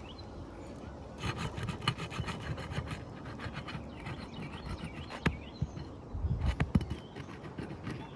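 A roofing tool scraping and rubbing against asphalt shingles in a run of quick strokes, followed by a few sharp clicks and knocks.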